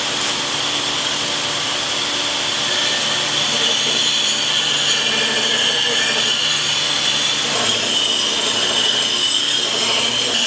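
Power grinder running steadily with steel held against it, sharpening a forged axe blade.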